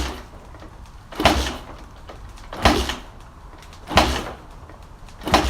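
Baja 250 motorcycle being kicked over again and again, about five strokes each roughly a second and a half apart, each giving a short thump and rush as the engine turns without catching. It is a cold start after winter storage, and the engine fails to fire.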